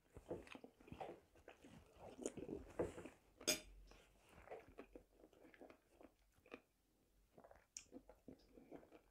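Close mouth sounds of a person eating soup: quiet chewing with small wet clicks and smacks, and one sharper click about three and a half seconds in.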